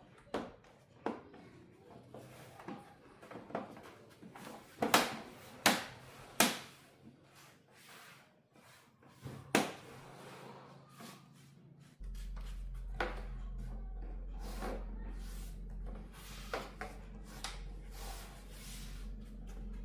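Scattered sharp clicks and knocks of small hard parts and tools being handled during a TV repair. About two-thirds of the way through, a steady low electrical hum starts suddenly and continues under further clicks.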